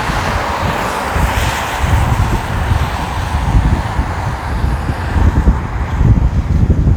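Wind buffeting the microphone of a moving electric kick scooter, with the hiss of passing traffic on wet road. The hiss is strongest in the first couple of seconds and then fades.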